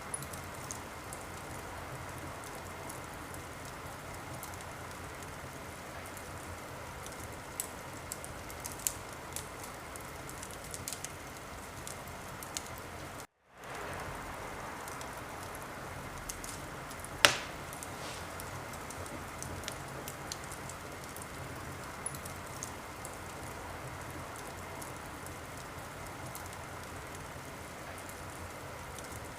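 Wood fire crackling steadily, with scattered sharp pops and one loud pop a little past halfway. The sound cuts out completely for a split second a little before that pop.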